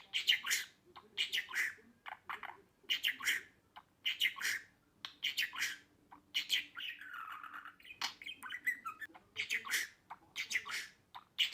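Budgerigar chattering: a run of short, scratchy, squawking notes, with a lower falling note near the middle.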